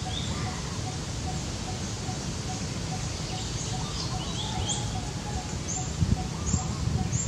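Small birds chirping in the background: short high chirps repeating about every half second, over a steady low rumble.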